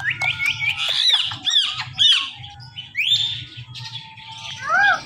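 Ring-necked parakeet squawking: a quick run of short rising high notes, then several arched squawks, a longer rising call around three seconds in, and a lower call near the end.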